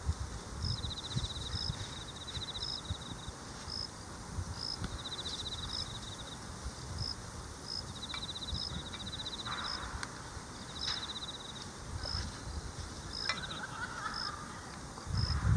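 Autumn insects singing in chorus. One kind gives pulsed trills about a second long every couple of seconds, and another gives short, high chirps about twice a second. A low rumble runs underneath, with a louder low thump near the end.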